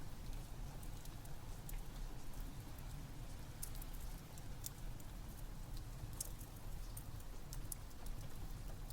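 Wood fire crackling in a fireplace, with scattered sharp pops and snaps over a steady low rumble, mixed with rain.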